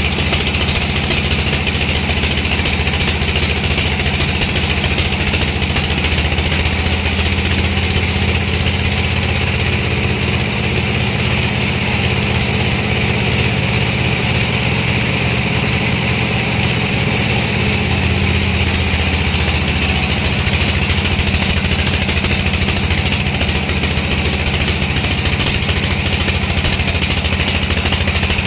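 Sawmill machinery running steadily: a low engine hum with a constant higher rushing noise, and no clear starts or stops.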